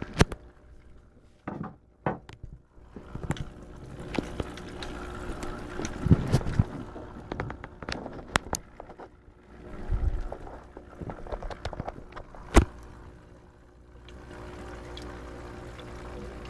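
Atman HF-0100 hang-on-back cascade aquarium filter running: water pouring and trickling from its spillway over a steady motor hum, with scattered sharp clicks and knocks, the loudest about twelve seconds in.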